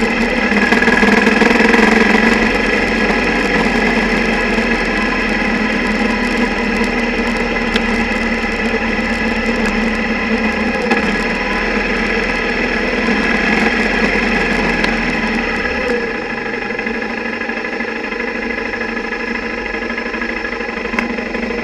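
Single-cylinder motorcycle engine running steadily, picked up mostly as vibration carried through the camera's underwater housing, which rattles from the engine's vibration. The deepest rumble drops away and the sound gets a little quieter about three-quarters of the way through.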